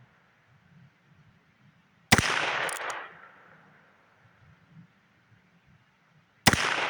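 Two shots from a Heritage Rough Rider single-action revolver firing .22 Long Rifle, about four seconds apart, each a sharp crack followed by about a second of echo.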